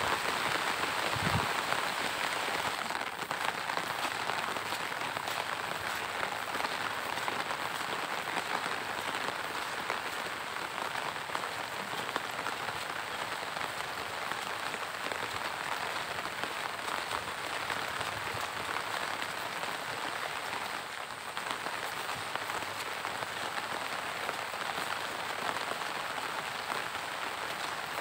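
Steady monsoon rain falling on pond water and leafy undergrowth: an even hiss of raindrops.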